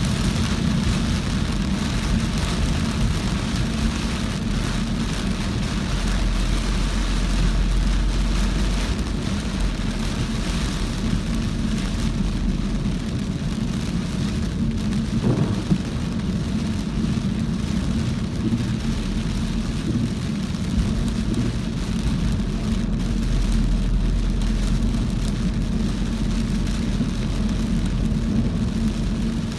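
A car driving through heavy rain: a steady low rumble of engine and tyres on wet road under an even hiss of rain on the car. About halfway through, a short rising tone and a single knock.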